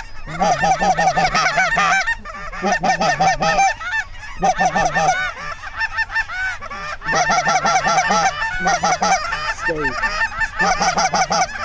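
Goose honking: rapid runs of loud honks and clucks, each run lasting about a second, with short breaks between them.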